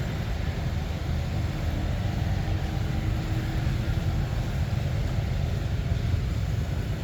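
Steady low rumble, with a faint hum that comes in for a few seconds partway through.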